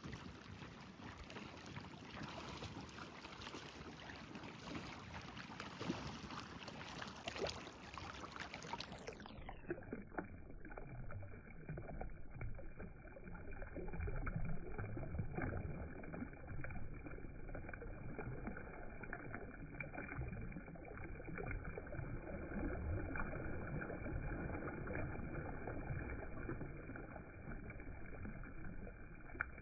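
Lake water lapping and sloshing, a steady wash of water noise. About nine seconds in the sound turns muffled as its high end is cut away, and it runs on that way.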